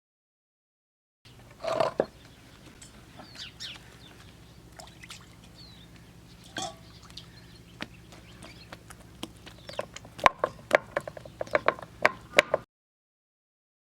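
Chickens clucking, then a quick run of sharp, light clicks and knocks near the end.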